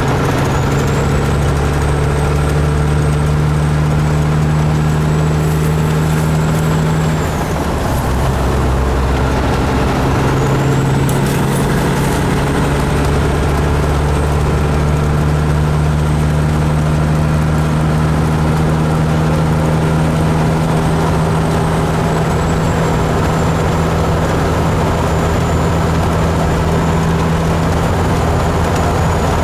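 Kenworth truck's engine running under way, heard steadily with a high whistle above the engine note. The engine note and the whistle drop away about seven seconds in and build back up a few seconds later.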